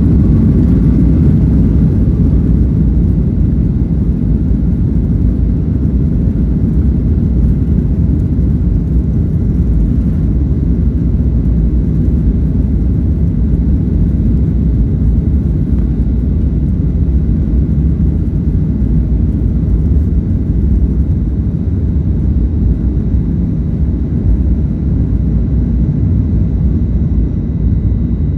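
Boeing 737 jet engines at takeoff thrust: a loud, steady, deep rumble, its faint upper hiss slowly thinning out.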